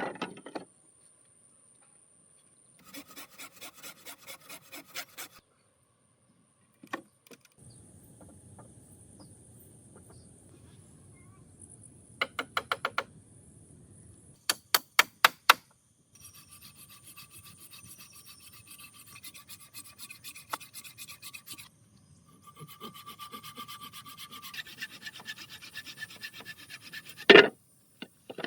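Several bouts of quick back-and-forth scraping strokes, like hand sawing or filing, with short pauses between them. There are some sharp clicks about halfway through and a loud knock near the end.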